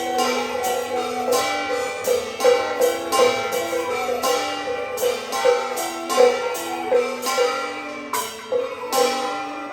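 Taiwanese Beiguan ensemble music: sustained melody notes stepping in pitch, with sharp percussion strokes about twice a second.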